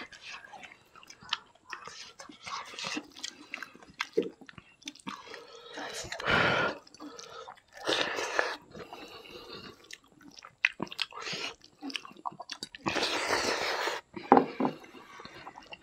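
Close-miked chewing and lip-smacking of people eating rice and chicken with their hands, in irregular short bursts with a few longer noisy stretches.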